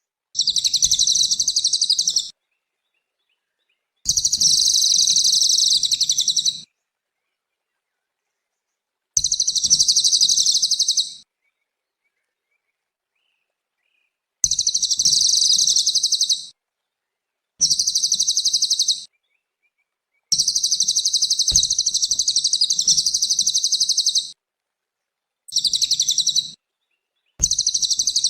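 Cililin bird singing loud, high, rapidly trilled phrases of about two to four seconds each, about eight of them, each starting and stopping abruptly with dead silence between: a master recording of its song for tutoring other songbirds.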